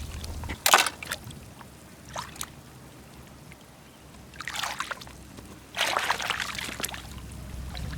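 Seawater splashing and trickling in several short bursts, with quieter stretches between.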